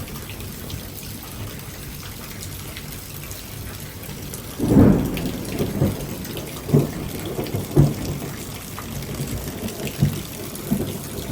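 Steady heavy rain, with a loud clap of thunder about four and a half seconds in, followed by several shorter low thumps of thunder rumbling on.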